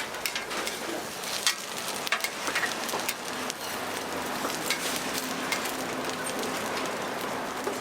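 Sorghum pancakes (susu bukkumi) frying in oil on a flat griddle: a steady sizzle with scattered sharp crackles and pops, most of them in the first half.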